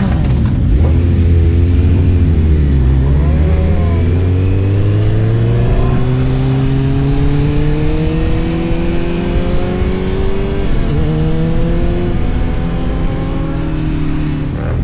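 Motorcycle engine accelerating under load: its pitch dips about three seconds in, climbs slowly for several seconds, drops briefly with a gear change about eleven seconds in, climbs again, then holds steady.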